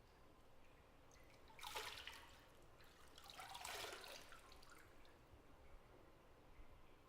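Bathwater splashing twice in a tub, a short splash about one and a half seconds in and a longer one a second later, over the faint hush of the bathroom.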